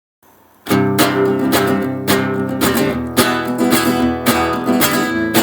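Acoustic guitar strumming chords at a steady rhythm, the intro of a country song, coming in about half a second in.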